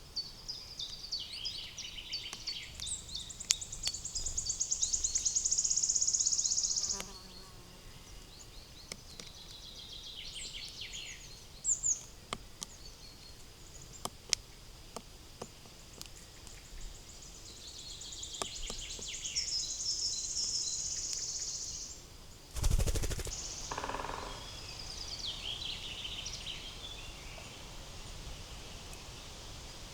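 Wild songbirds singing: two long, high-pitched trilling songs, one at the start and another from about 17 seconds in, with scattered sharp ticks between them. A single dull thump comes about 23 seconds in.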